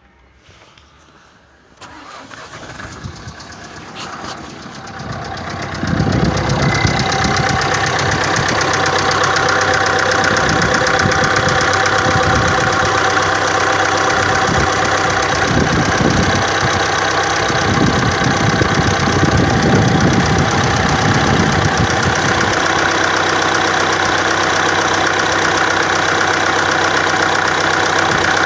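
Renault R9M 1.6 dCi diesel cold-starting: a short crank, then it catches about six seconds in and runs roughly with injector knocking for about fifteen seconds before settling to an even idle. The owner suspects air in the fuel lines, drawn in through leaky quick-connectors.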